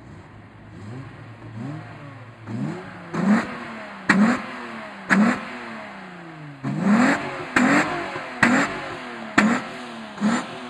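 VW Golf 3 VR6 2.8's narrow-angle V6 being revved in a series of quick throttle blips, roughly one a second, each rev climbing sharply and dropping back; the first few are small and the later ones rise to sharp, loud peaks.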